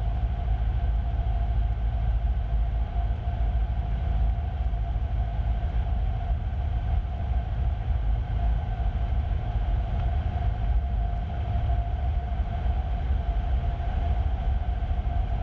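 Cessna 150's four-cylinder Continental O-200 engine and propeller running steadily in flight, a constant low drone with a faint steady hum, heard through the aircraft intercom audio feed.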